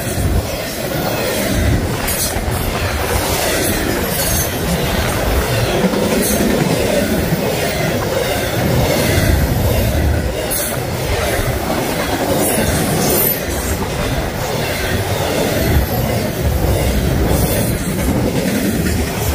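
Intermodal freight train passing close at about 60 mph: a steady, loud run of steel wheels on the rails with clickety-clack over the joints, and a few brief high-pitched squeaks from the wheels.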